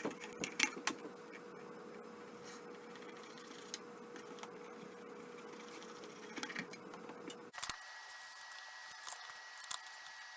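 Scattered faint clicks and taps of small handling noises over a steady hum. The background hum changes abruptly about seven and a half seconds in.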